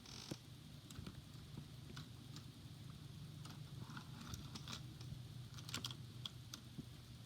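Faint, scattered light clicks and knocks of a small plastic toy engine being handled and set aside, over a low steady hum.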